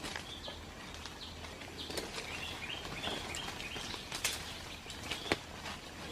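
Outdoor ambience of repeated short, high chirping calls from small wild creatures, with a few sharp clicks, the loudest about five seconds in.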